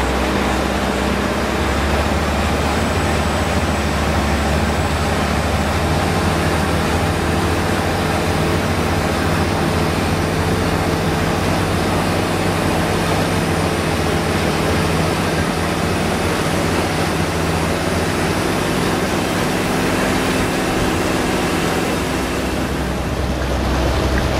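Long-tail boat's turbocharged engine running steadily under way, with a faint high turbo whine over the engine note.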